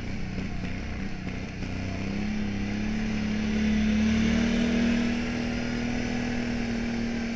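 Can-Am 570 XT ATV's V-twin engine running under throttle, its pitch rising about two seconds in and holding steady, loudest near the middle, then dropping off right at the end.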